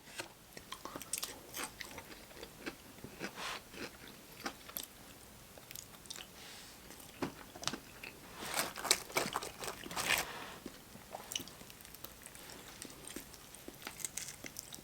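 A person eating up close: bites with crisp crunches and wet chewing. The crunching comes in a run of short crackles, loudest in a cluster about two thirds of the way through.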